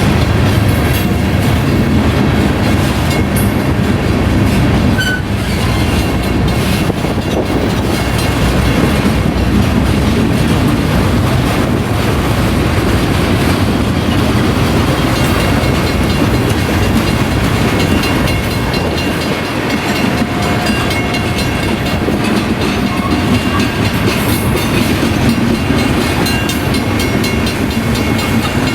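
Freight cars of a BNSF manifest train rolling steadily past at a grade crossing: a continuous rumble of steel wheels on rail with clacking over the rail joints.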